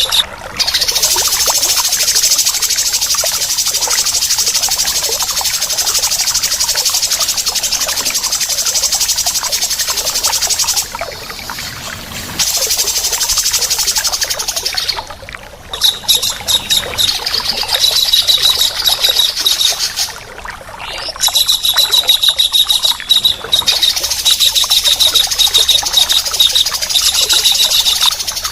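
Harsh, rapid chattering calls of a kingfisher (tengkek udang) combined with a grey-cheeked bulbul (cucak jenggot): a dense, high-pitched rattle of fast repeated notes, broken by three brief pauses.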